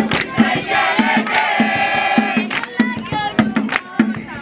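A group of voices singing together over a steady beat, with sharp claps or strikes on the beat.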